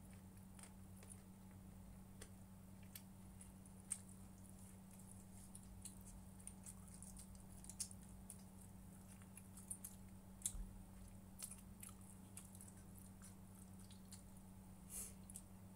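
Faint eating sounds: chewing with scattered small clicks a few times a second, over a steady low electrical hum.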